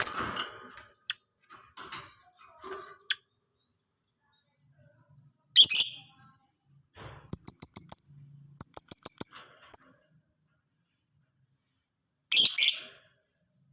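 Lovebird calling in sharp, high-pitched chirps that come in separate bursts: one at the start, one about six seconds in, two quick runs of rapid repeated chirps just after, and a last burst near the end.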